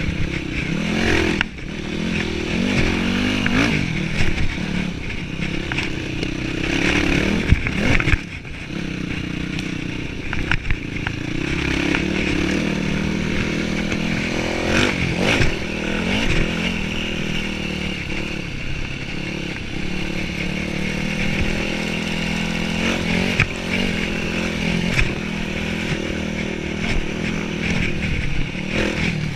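Yamaha WR dirt bike engine running under load on a trail, its pitch rising and falling as the throttle opens and closes, with a few sharp knocks and some clatter from the bike over rough ground.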